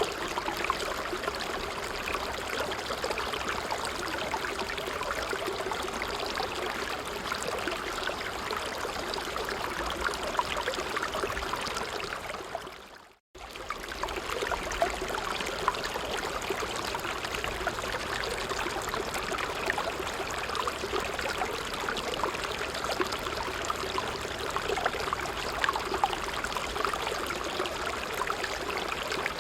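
A stream of water flowing steadily, a busy rush with fine splashy flickers. About 13 seconds in it fades out briefly to almost nothing and comes straight back.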